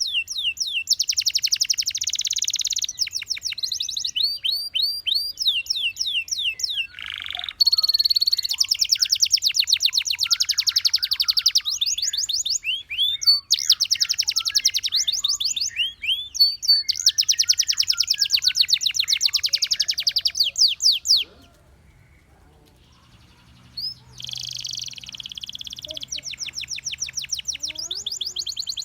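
Gloster canary singing: fast repeated chirps and rolling trills in phrase after phrase, breaking off for a few seconds about two-thirds of the way in and then starting again.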